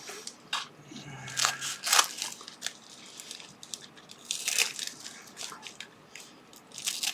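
Cutting into a plastic packaging bag: irregular crinkles of plastic and sharp cutting snips.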